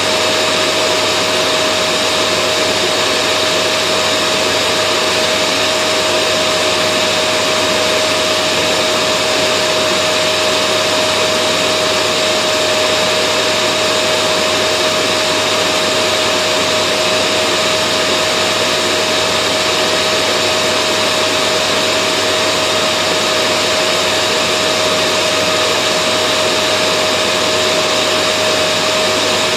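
Vacuum cleaner running continuously: a steady, unchanging whine and rush of air with a constant motor hum.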